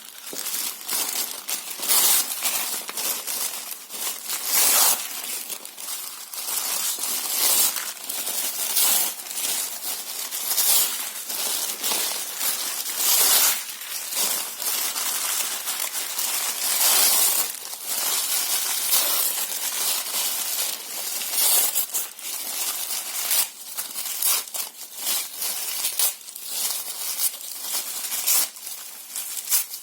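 Paper and cardboard boxes being torn and crumpled: a continuous run of irregular rips and crinkles, some much louder than others.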